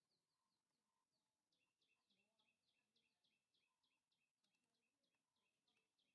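Near silence with faint, rapid bird chirping: short high chirps repeated about four to five times a second, growing a little louder about a second and a half in.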